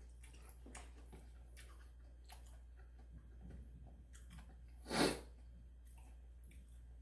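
Close-up eating sounds: faint wet chewing and small mouth clicks, with one louder, short eating sound about five seconds in.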